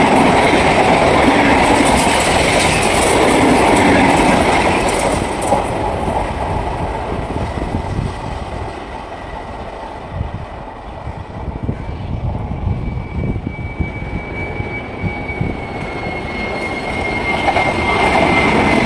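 Mumbai Western Railway EMU suburban local trains running past at speed. The first train is loud at first and fades as its last coaches go by. Near the end a second local comes close and the noise builds again, with a thin high whine growing through the second half.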